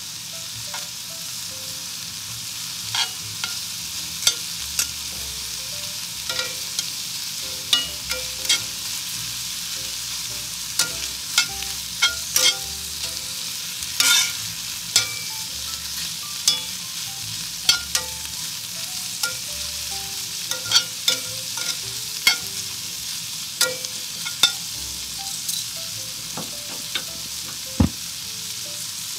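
Pieces of ribeye steak sizzling steadily in a cast-iron skillet as their outsides are seared. Frequent sharp clicks come from metal tongs turning the pieces against the pan.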